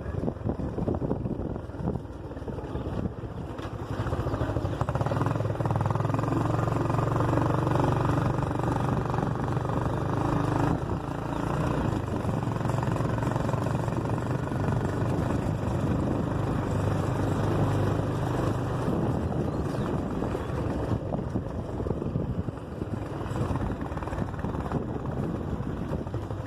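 A motor vehicle's engine running steadily as it drives along, over a haze of road and wind noise; the engine hum grows louder about four seconds in and eases again near the middle.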